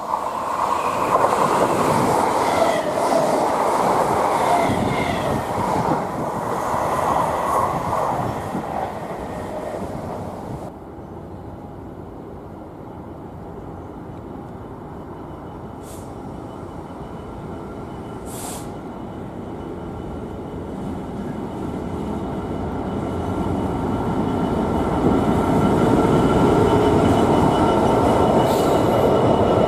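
A pair of Class 320 electric multiple units passing with loud wheel and rail noise, cut off abruptly about a third of the way in. Then a Class 66 diesel freight locomotive's two-stroke V12 engine, growing steadily louder as it draws near, with two short high hisses in the middle.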